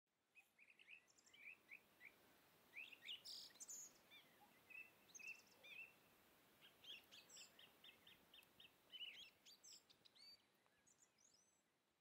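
Faint birdsong: several small birds chirping and whistling in short calls, with a quick run of evenly spaced notes about seven seconds in.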